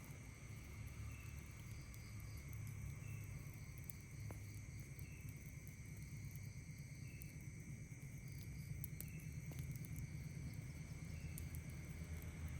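Night insects calling: a steady high-pitched insect drone with a short chirp repeating about every two seconds, over a low steady rumble and a few faint clicks.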